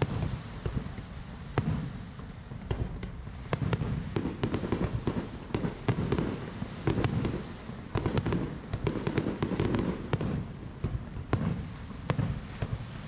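Aerial fireworks shells bursting: a dense, irregular run of bangs and crackles over a low rumble.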